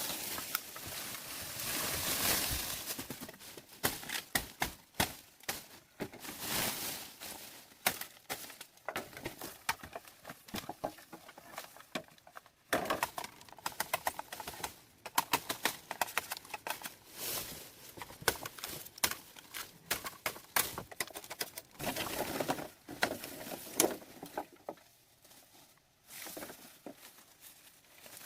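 Irregular taps, clicks and rustling, with a quieter lull near the end.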